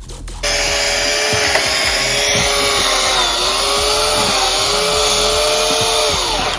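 Electric chainsaw motor switching on abruptly at full speed and running with a steady high whine. Its pitch sags briefly around the middle, then winds down as the trigger is released near the end.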